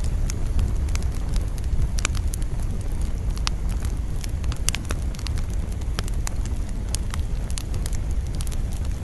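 Wood campfire crackling, with frequent sharp pops and snaps scattered irregularly over a steady low rumble of wind.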